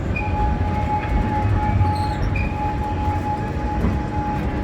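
Amusement-park train running along its track, heard from aboard: a steady low rumble with a thin, steady squeal that sets in about a second in and stops near the end.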